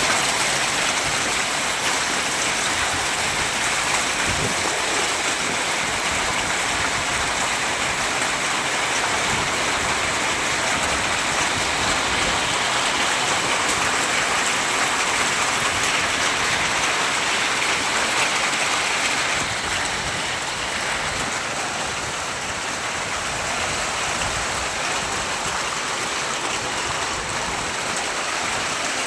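Heavy rain pouring steadily, a dense, even hiss that eases a little about two-thirds of the way through.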